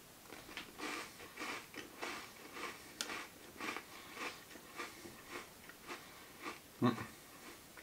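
A crisp cream-and-cocoa sandwich biscuit (Eugenia Original) bitten and chewed close to the microphone, with soft crunches about twice a second. There is a brief louder low sound near the end.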